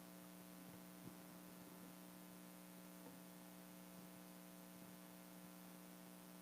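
Near silence: a faint steady electrical hum from the sound system.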